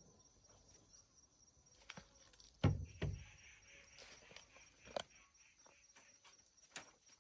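A handful of scattered knocks and thuds, the two loudest and deepest close together a little under halfway through, over a faint steady high chirring like insects.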